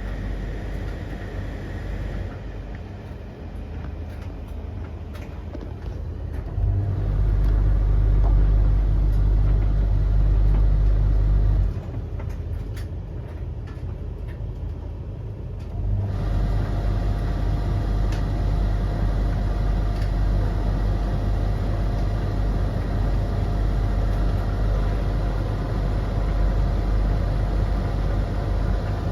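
Tumble dryers running mid-cycle, the drums turning and motors and fans giving a steady low rumbling hum. The hum grows louder about a quarter of the way in, drops back a little before halfway, then rises again just past halfway with a steady whine over it.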